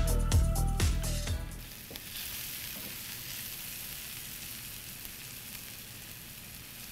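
Background music with a steady beat that stops about a second and a half in, giving way to flour-dredged sliced shallots frying in hot oil in a cast-iron skillet: a steady, high sizzle as they are stirred with a wooden spatula.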